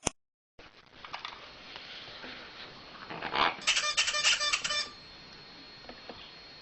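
Parrot squawking in a quick run of harsh, shrill calls about halfway through, over faint scuffling and patter.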